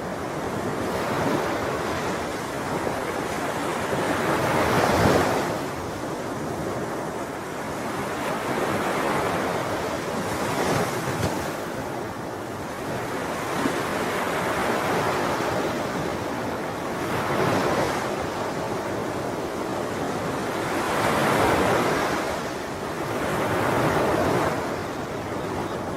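Sea waves breaking and washing on a shore, swelling and fading in slow surges about every five or six seconds.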